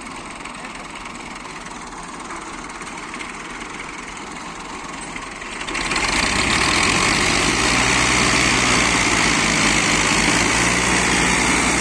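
A faint hum of background noise, then about six seconds in a motor engine comes in suddenly, loud and close, and runs steadily at a low, even idle.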